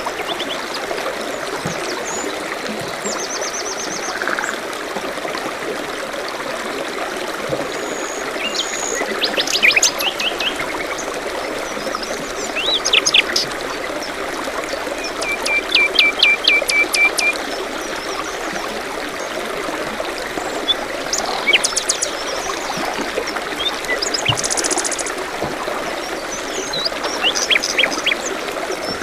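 Forest stream running steadily, with songbirds chirping over it: several quick series of sharp high notes, a longer run of repeated chirps around the middle, and a high buzzy trill later on.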